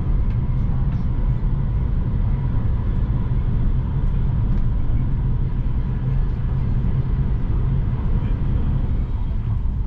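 Steady low rumble of an SBB passenger train heard from inside the carriage, with a faint steady whine running through it.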